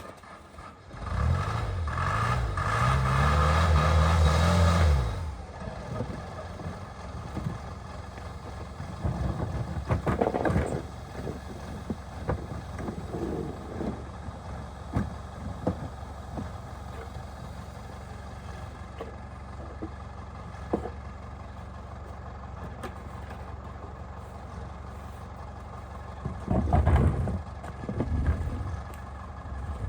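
An engine revs up and back down in the first few seconds, then keeps running steadily under scattered knocks and clatter, with a louder burst of noise near the end.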